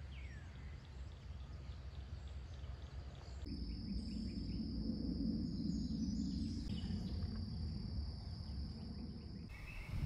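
A bird sings a short run of quick downslurred whistles in the first second, against the open-air background. From about three and a half seconds a steady high buzz, like insects, sounds over a low rumble.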